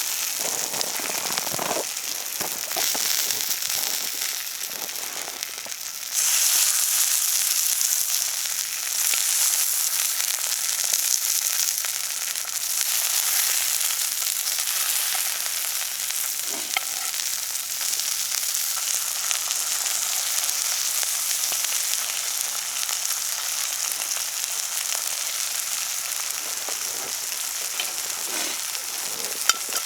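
Food sizzling in a frying pan, a steady dense hiss with a few small pops. It gets suddenly louder about six seconds in.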